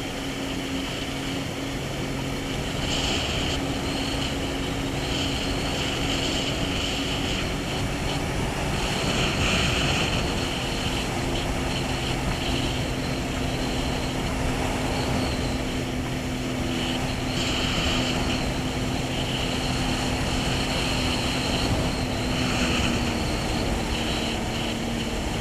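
Jet ski engine running at cruising speed with a steady drone, its pitch dipping and rising slightly a few times as the throttle changes, over a constant rush of wind and water.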